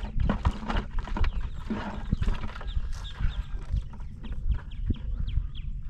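Irregular clicking and knocking as blue crabs and a wire crab trap are handled, over a steady low wind rumble on the microphone.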